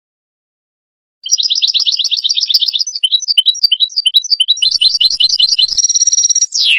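European goldfinch singing: starting abruptly about a second in with a fast trill of rapidly repeated notes, then varied twittering phrases, ending in a held note and a quick falling slide that cuts off sharply.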